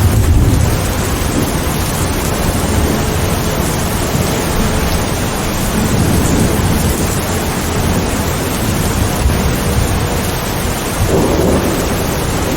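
Steady heavy rain with thunder rumbling low underneath, the rumble heaviest at the very start and swelling again near the end.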